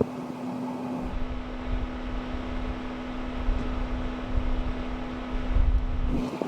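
Vehicle road noise with a steady hum. From about a second in until near the end, a heavy low rumble of wind buffeting the microphone builds over it.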